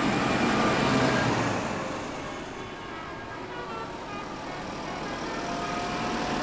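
Tractors on the road running past in a procession, with engine and road noise. It is loudest about a second in, eases off, then builds again as more come by.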